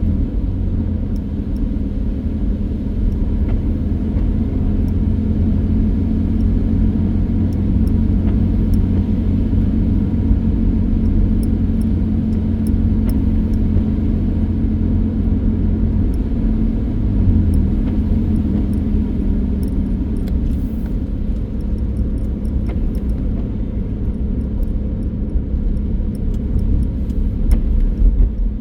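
A car driving: a steady low rumble of engine and road noise, with the engine pitch shifting briefly about halfway through.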